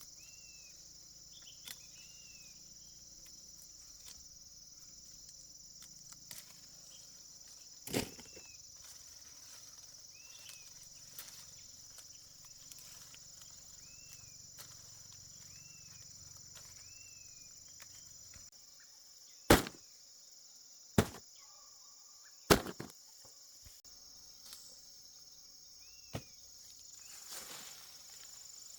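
A steady, high insect drone of crickets with a short chirp repeating every second or two. Several sharp knocks stand out: one about 8 seconds in, three loud ones close together around 20 seconds, and a softer one near the end.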